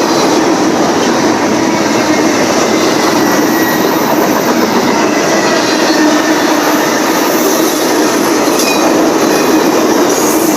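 Freight train cars rolling past, a steady loud rumble of steel wheels on rail with faint high wheel squeal.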